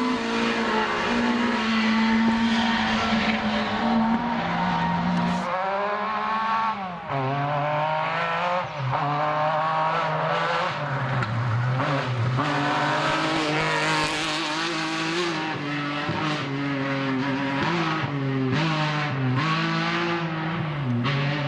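Rally car engines revving hard, the pitch climbing and dropping again and again with gear changes and lifts off the throttle. The sound changes abruptly about five and a half seconds in, as if to another car.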